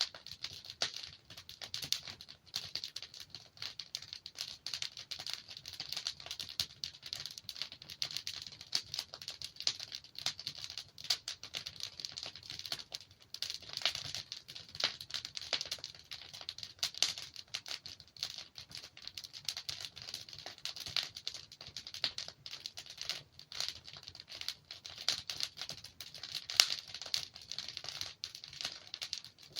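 Wood fire crackling and popping: a dense, irregular stream of small sharp snaps from burning logs over a faint low hiss.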